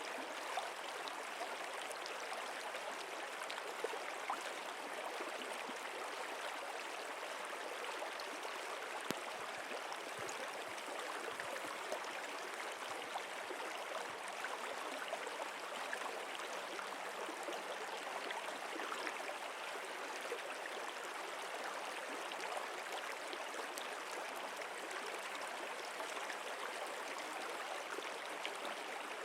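A stream flowing steadily, an even rush of running water with small trickles and drips ticking through it.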